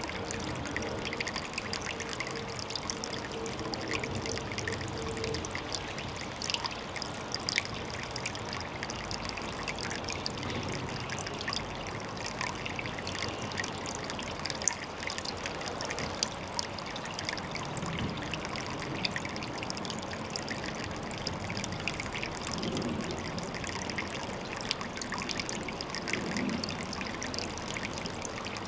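Water trickling steadily at a pond, with many small drips and splashes.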